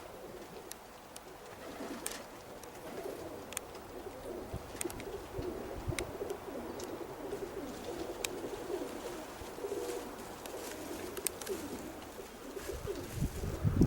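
Domestic pigeons cooing, a low wavering warble that goes on steadily, with a few faint clicks scattered through. A loud low rumble comes in near the end.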